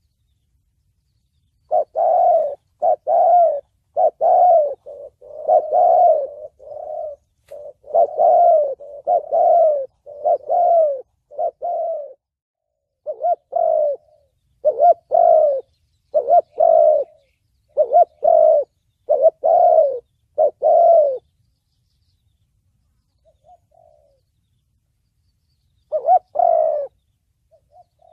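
Spotted dove cooing: a long run of repeated low coo phrases with only short breaks between them, then a pause, a few faint notes and one more phrase near the end.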